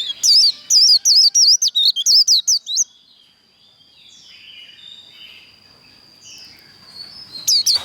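White-eye (vành khuyên) singing its fast 'líu' song: a loud run of rapid, high, sharply swooping notes, about five a second, then softer twittering, then another loud run near the end.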